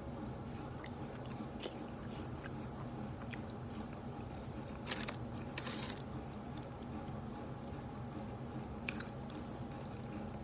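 Close-up biting and chewing of a crispy fried chicken sandwich, with scattered crunches, the strongest about five to six seconds in. A steady low hum runs underneath.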